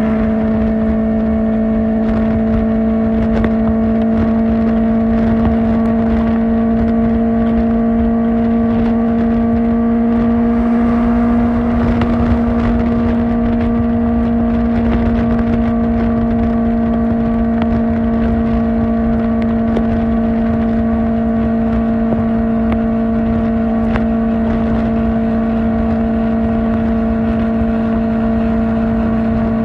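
Kawasaki Ninja ZX-4R inline-four engine with an Akrapovic exhaust holding a steady note at cruising speed, with wind and road noise underneath. The pitch rises slightly about ten seconds in and settles again.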